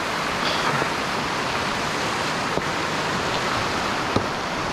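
Steady rushing hiss of riding fast down through snow, with wind on the microphone.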